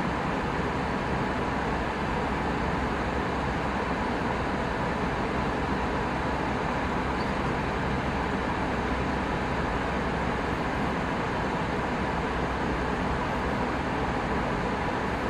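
Steady cabin noise inside an Airbus A319 airliner: the even rush and hum of the jet engines and airflow, strongest low down, with a faint steady tone, unchanging throughout.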